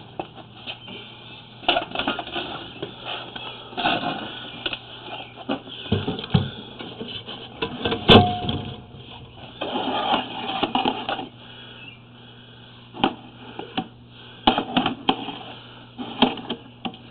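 Irregular clicking and clattering of sewer inspection camera gear, the push cable feeding the camera head down the sewer line. The loudest is one sharp click about eight seconds in.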